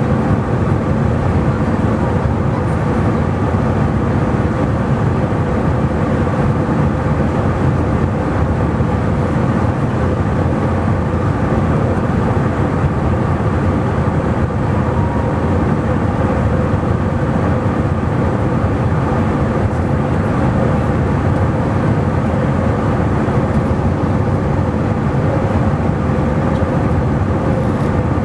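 Airbus A320 engine and airflow noise heard inside the passenger cabin: a steady, loud drone with a few constant humming tones.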